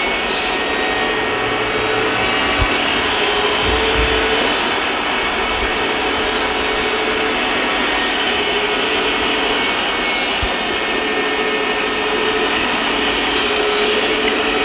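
Steady whirring of small electric motors from RC model trucks and construction machines, with a whining tone, like a small hydraulic pump, that starts and stops every couple of seconds.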